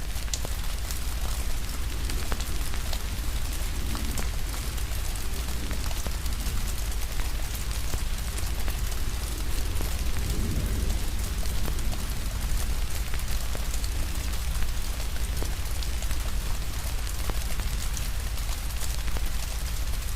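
Steady rain falling together with a wood fire crackling, small sharp pops scattered all through over a constant rush of rain and a low rumble.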